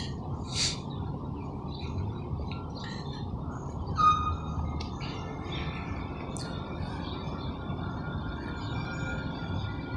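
Fire truck engine running with a steady low rumble, with a few short high chirps and squeaks over it; the loudest is a brief sharp squeak about four seconds in.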